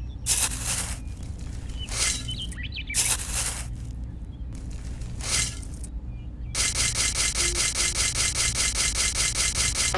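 Scraping and rasping: four separate strokes in the first six seconds, then a fast, even run of scraping strokes from about six and a half seconds in, over a steady low hum.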